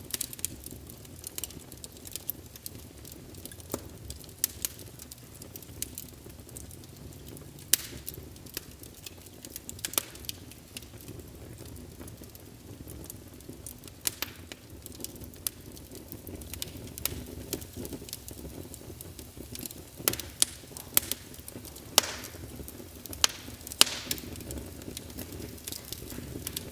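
Fireplace sound emulator playing a wood fire crackling: irregular sharp snaps and pops, a few much louder than the rest, over a steady low rumble.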